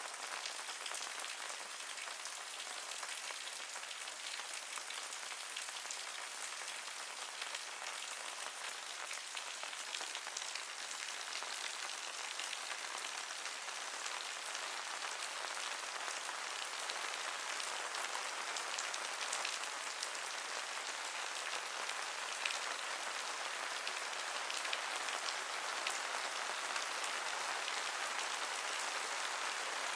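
Steady rain falling, a dense patter of drops on surfaces, growing gradually a little louder through the second half.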